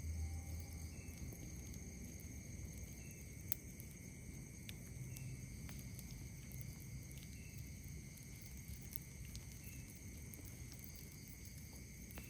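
Night insects keep up a steady high-pitched trilling chorus, with a short call repeating about every two seconds. Over it come sparse sharp crackles and pops from a wood campfire, the loudest about three and a half seconds in, and a low rumble underneath.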